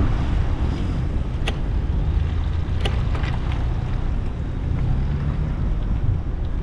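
Wind rushing over the microphone while cycling: a steady low rumble, with two short sharp ticks about a second and a half and three seconds in.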